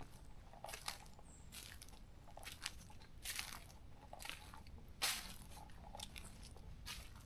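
Footsteps crunching on a forest trail at a steady walking pace, a crunch every half second to a second, one step about five seconds in louder than the rest.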